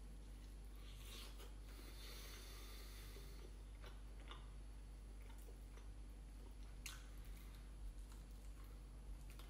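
Faint chewing and biting on fried chicken, with a few small crunches and clicks.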